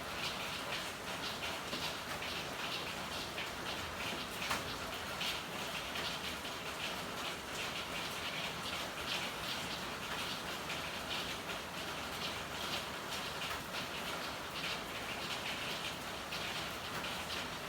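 Steady rain with many separate drops pattering irregularly, and one sharper drip about four and a half seconds in.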